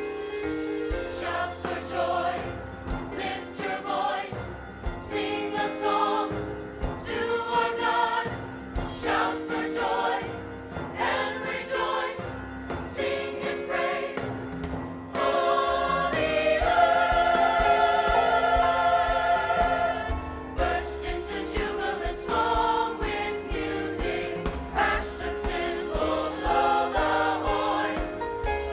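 A church choir singing with instrumental accompaniment, with a long held chord about halfway through.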